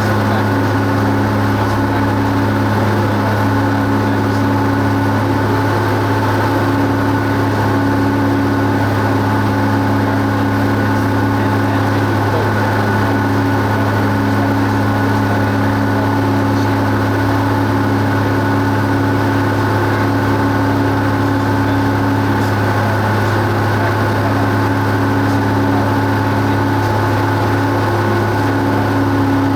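Cessna 172 Skyhawk's piston engine and propeller droning steadily, a constant low hum with several steady tones above it.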